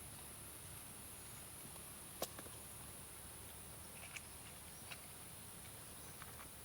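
Faint, steady high-pitched drone of insects such as crickets, with a few sharp isolated clicks about two, four and five seconds in.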